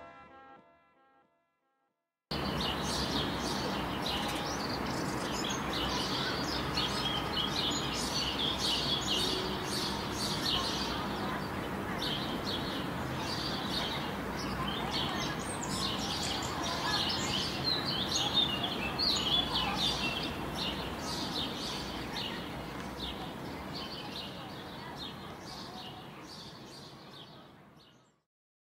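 Birds chirping, many short calls overlapping over a steady low background noise; it starts suddenly about two seconds in and fades out near the end.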